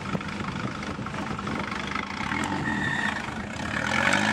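Turbocharged Volvo 240 wagon's engine running at low revs. It grows louder and begins to rev up near the end.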